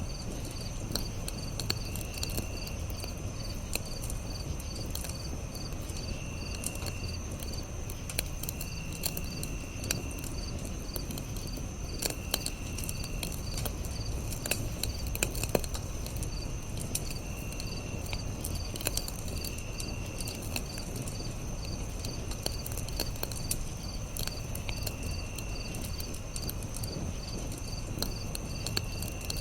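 Campfire crackling with scattered sharp pops over a low steady rustle of burning, under crickets chirping steadily at about two chirps a second, with a second insect trilling now and then for about a second at a time.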